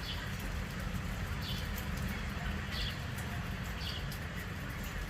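Steady rain with drops ticking close by, and a bird repeating one short chirp every second or so.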